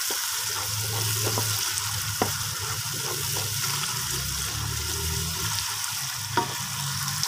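Onion, tomato and green-chilli masala sizzling in ghee in a non-stick pot as a wooden spoon stirs it, with a few light knocks of the spoon against the pot.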